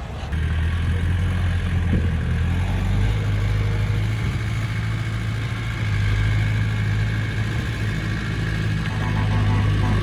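Diesel engine of heavy earthmoving equipment running steadily with a low drone.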